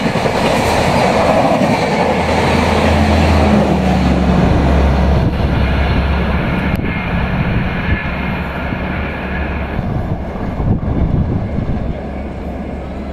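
A WAP7-hauled Indian Railways train passing at high speed, its wheels running loudly over the rails with a few sharp knocks. The rush eases off after about ten seconds as the train draws away.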